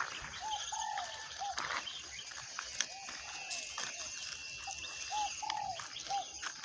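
A bird calling over and over in short arched notes, often a short note followed by a longer one, with faint footsteps on a dirt path underneath.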